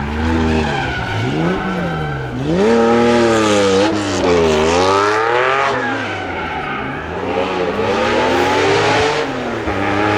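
Rally car engine revving hard, its pitch climbing and dropping several times as it accelerates and lifts off, rising again near the end.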